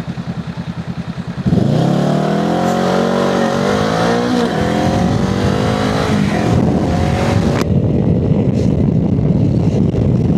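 Honda Rebel 500's parallel-twin engine chugging at low revs, then opening up about a second and a half in and accelerating hard, its pitch climbing through two upshifts before it settles into steady running.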